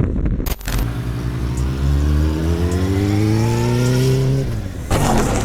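A vehicle engine accelerating, its pitch rising steadily for about four seconds, followed by a short rush of noise near the end.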